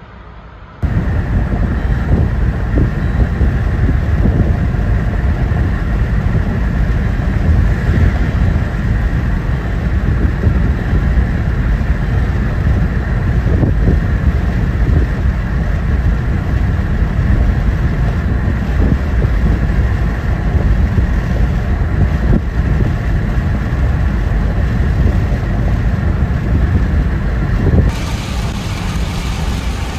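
Loud, steady rumble of storm wind and heavy rain against a vehicle, cutting in suddenly about a second in, with many small pattering hits through it. Near the end the sound drops a little and turns hissier.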